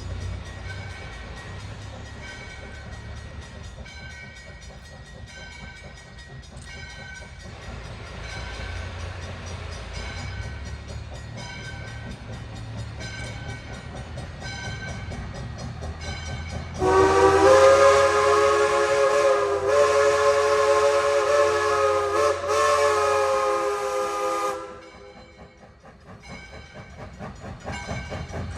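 Steam locomotive passing with a steady low rumble and a bell ringing at an even pace, then one long, loud blast of its multi-tone steam whistle lasting about seven seconds, with a brief catch near its end. The locomotive is an ALCO 2-8-0 steam engine.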